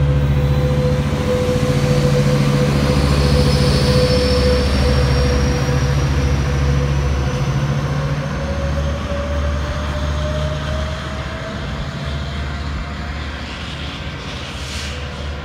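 Metrolink commuter train passing and pulling away, its EMD F125 diesel locomotive pushing at the rear under power. A loud steady low engine hum with a tone that slowly rises in pitch, fading over the last few seconds as the train recedes.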